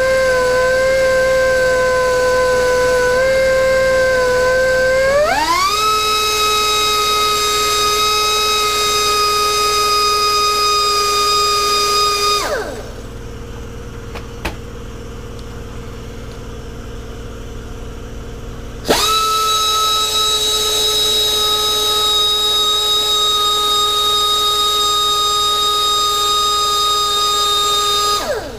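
Air-powered die grinder with a burr, porting a two-stroke cylinder: a steady high whine that steps up in pitch about five seconds in. It winds down and stops, starts again abruptly after about six seconds, and winds down once more near the end.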